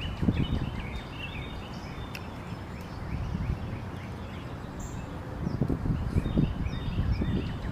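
Birds chirping over and over in quick, short notes. Close, irregular chewing and eating noises come in near the start and again for the last couple of seconds, and these are the loudest part.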